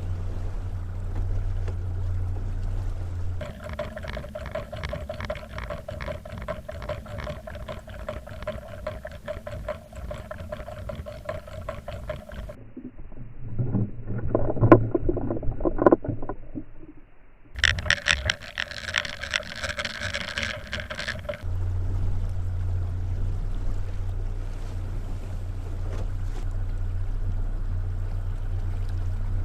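Boat motor running steadily at trolling speed, a low drone. The sound changes abruptly several times: a higher steady tone with a fluttering hiss comes in for stretches, and a loud muffled stretch sits in the middle.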